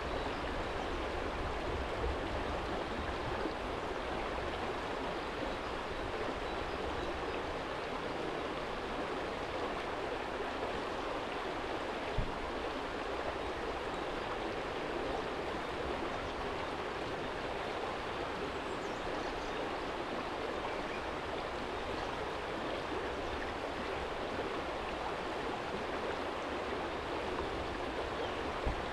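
Small shallow stream flowing steadily over a stony bed, a continuous even rush of water. Two brief low bumps break through, one about 12 seconds in and one near the end.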